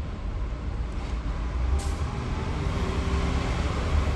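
Street traffic running in a steady low rumble, with a faint engine tone from a large vehicle such as a bus.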